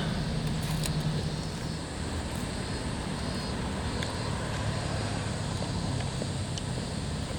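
A steady, low engine drone from a distant motor, with a few faint clicks over it.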